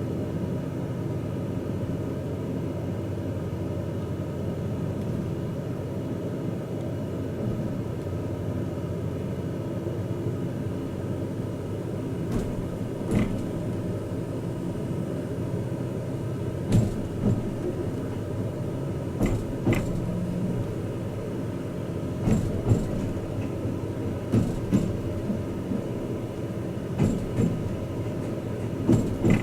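Twilight Express Mizukaze train running along the line, a steady low rumble heard from inside a passenger car. From about twelve seconds in, short irregular knocks and clicks come through over the rumble.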